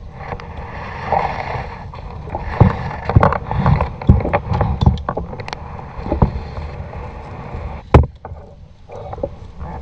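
Kayak paddling in shallow water: irregular paddle splashes and knocks against the boat over a low rumble, with one sharp knock about eight seconds in.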